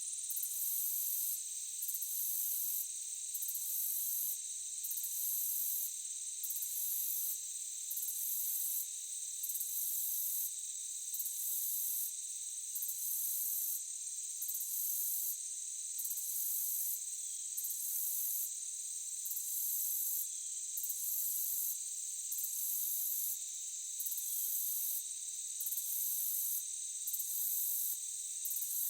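Chorus of crickets and other insects: a steady high-pitched drone, with a higher trill that breaks off briefly about every second and a half in an even rhythm.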